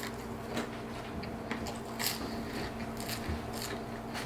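A person chewing and eating chicken nuggets: soft wet mouth smacks and small clicks at irregular moments, over a steady low hum.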